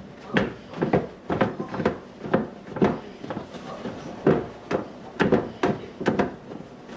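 Light knocks and clacks, roughly two a second and irregularly spaced, of containers and kitchen items being handled and set down, with drawers or doors opening and closing.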